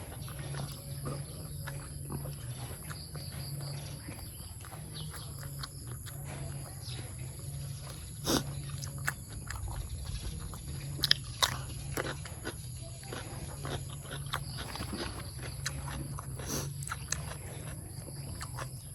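A person chewing raw beef and offal close to the microphone: wet, pulsing mouth sounds with scattered sharp clicks, a few louder ones about eight and eleven seconds in.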